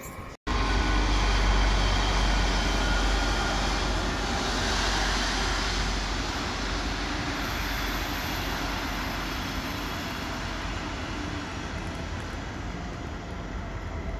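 Red double-deck regional passenger train rolling past at close range, giving a steady rumble and rolling wheel noise. It is loudest in the first couple of seconds and fades slowly as the coaches go by.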